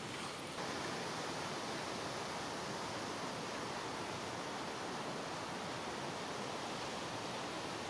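A steady, even hiss of noise with no distinct events, like wind or rushing water.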